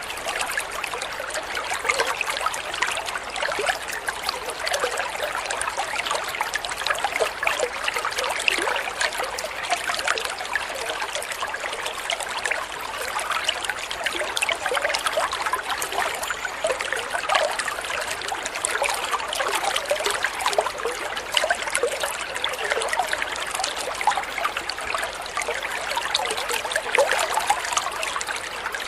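Flowing water trickling and babbling steadily, with many small splashes and plinks of droplets.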